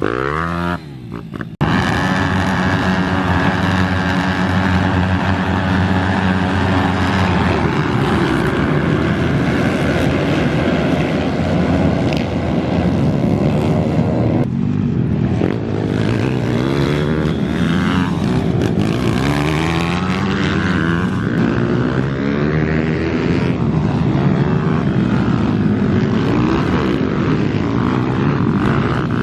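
Racing minibike engines running hard, their pitch rising and falling as the riders rev, shift and back off. The sound steps up suddenly just under two seconds in.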